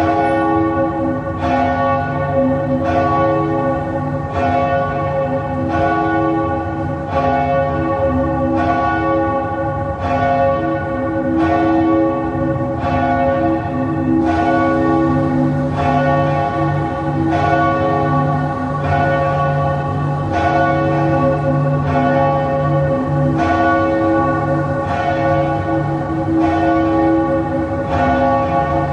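Church bell tolling slowly and steadily, one stroke about every one and a half seconds, each ring hanging on into the next, as a death knell.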